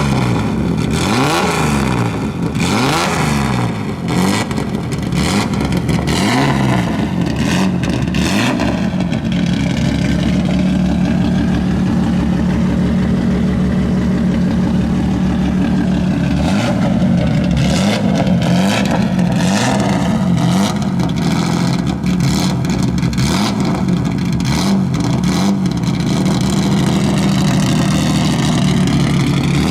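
Rally car engine running, revved in repeated blips that rise and fall in pitch through the first several seconds and again around the middle, settling to a steady run in between.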